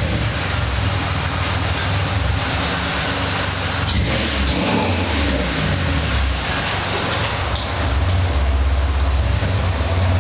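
Exhaust note of a Chevrolet Impala's 3.4-litre 60-degree V6 through a Flowmaster 40 two-chamber muffler, running with a steady low rumble. The note shifts briefly about four seconds in and is a little louder from about eight seconds in.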